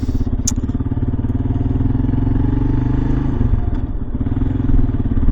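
Kawasaki KLR 650's single-cylinder engine running steadily under way. The engine note dips briefly about three and a half seconds in, then steadies again.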